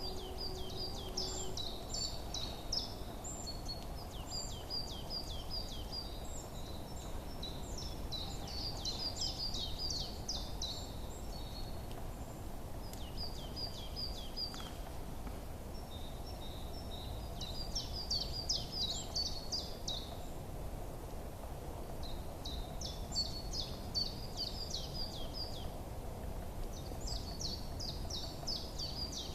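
Small songbirds singing in repeated phrases of quick, high chirps, a new burst every few seconds. Beneath them runs a steady low background noise.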